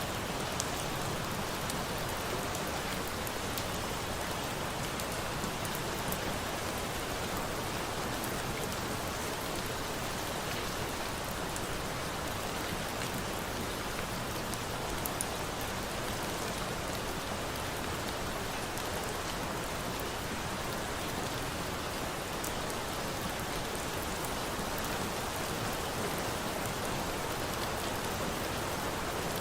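Steady rain falling, an even hiss of drops, with a few faint crackles from a bonfire here and there.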